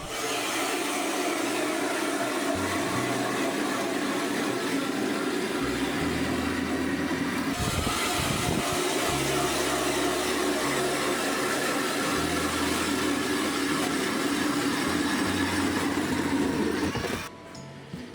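Power ice auger drilling a hole through lake ice: a loud, steady motor-and-cutting noise that starts suddenly and cuts off about seventeen seconds in.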